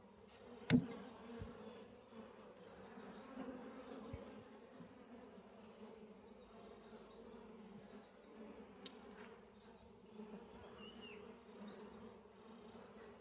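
Honeybees buzzing steadily around an opened hive while brood frames are moved into a new box. A sharp knock comes about a second in and a smaller one near nine seconds, with a few short high chirps in between.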